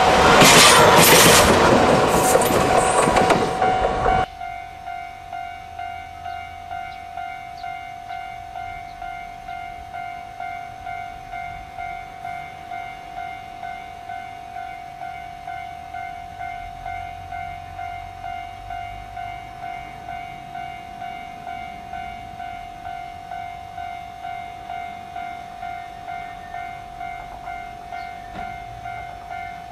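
A diesel locomotive running light passes close by, with loud engine and wheel noise, for about the first four seconds, then stops abruptly. After that a level-crossing warning bell rings in a steady even rhythm over a faint low diesel engine rumble from a locomotive approaching.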